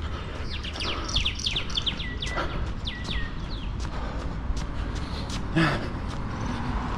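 A small songbird calling: a quick string of high chirps, each sweeping sharply downward and some ending in a short level note, over steady low wind rumble on the microphone and light regular footfalls.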